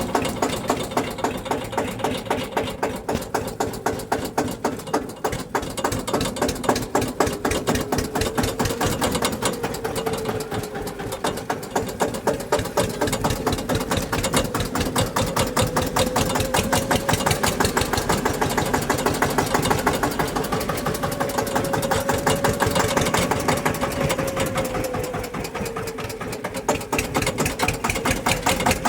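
Tractor engine idling steadily with an even firing beat, its speed drifting slightly up and down.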